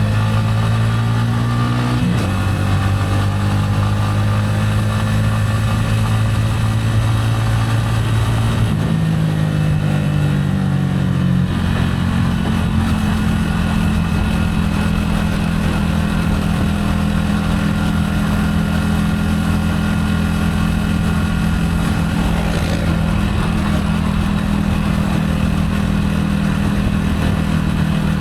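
Gilera AC4 motorcycle engine running as the bike is ridden at steady speed, with road and wind noise. The engine note steps to a new pitch about two seconds in, again near nine seconds and again near eleven and a half seconds, then holds steady.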